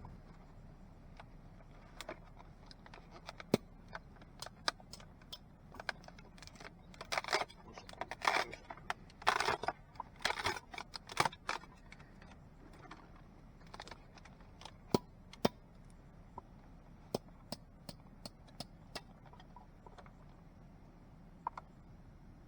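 Small objects being handled: scattered sharp clicks and knocks throughout, with a stretch of louder rustling and clattering in the middle.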